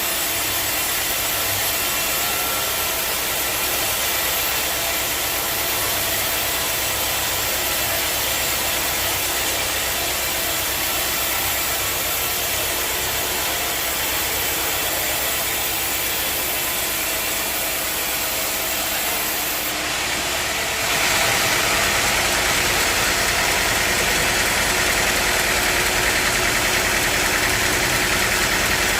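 Sawmill machinery running steadily with an engine-like drone. About 21 seconds in it abruptly gets louder and a stronger high hiss joins it.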